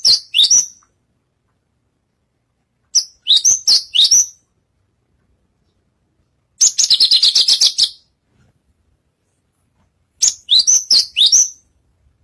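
Branjangan (Javan bush lark) singing: four short phrases of quick, high, sweeping chirps a few seconds apart, the middle phrase a rapid rattling trill.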